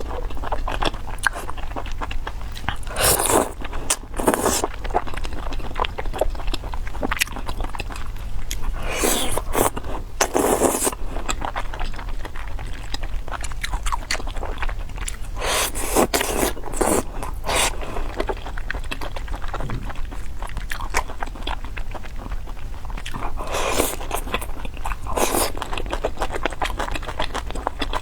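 Close-miked eating: biting and chewing with crunching and wet mouth clicks, in short bursts every second or two.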